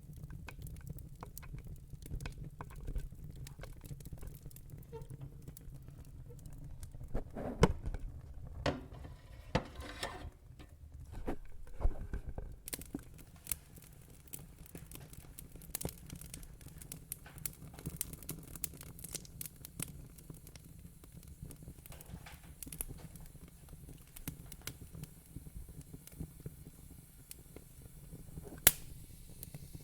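Wood fire in a fire pit crackling: scattered sharp pops and snaps over a low steady rumble, with a few louder pops about a third of the way in and near the end.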